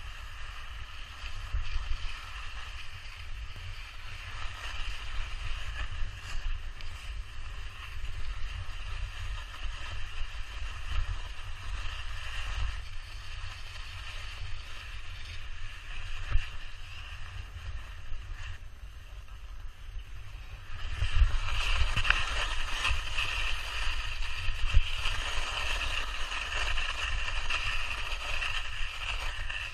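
Steady low rumble with a hiss over it that gets louder about two-thirds of the way through.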